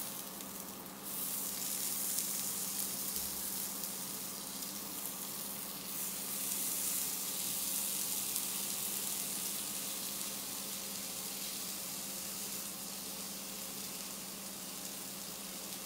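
Skewered chicken gilafi kebabs sizzling steadily as they fry, just after being turned over. The sizzle swells about a second in.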